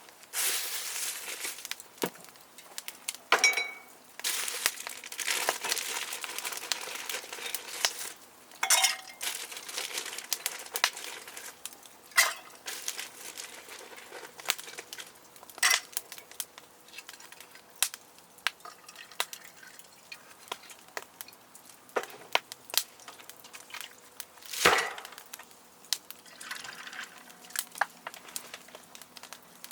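Camp cooking gear being handled by hand: irregular clinks and knocks of wood, metal and glass, with stretches of rustling and crinkling, and one louder knock near the end.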